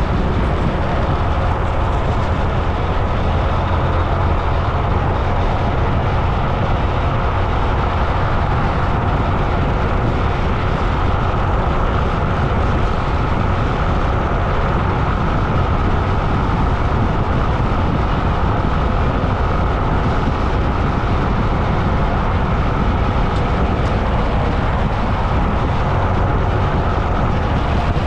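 Steady rush of wind on the microphone and road noise while riding along a road, with a strong, unbroken low rumble.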